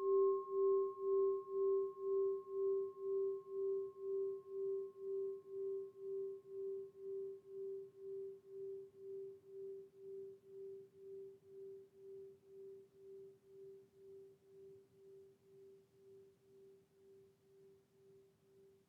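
Singing bowl ringing out after a strike: one low hum that wavers about twice a second and slowly fades, while a higher overtone dies away about halfway through.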